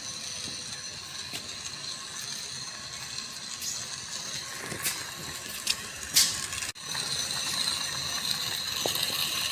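A small geared mechanism running with a steady high whine, with a few sharp clicks past the middle and a brief break in the sound about two-thirds through.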